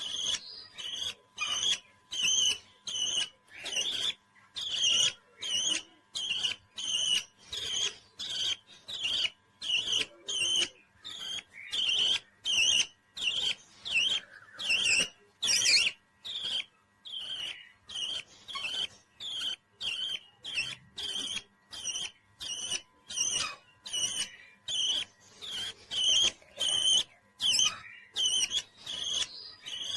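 Pet parrot calling in a long, even series of short, high chirps, about two a second.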